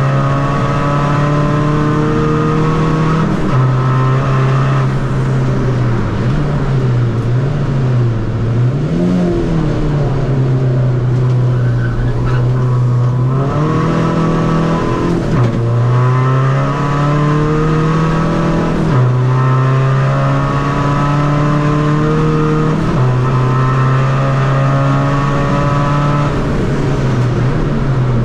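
Tuned 2.0-litre common-rail diesel engine of a Seat Ibiza FR driven hard on track. The revs climb, drop and step repeatedly as it changes gear and slows for corners.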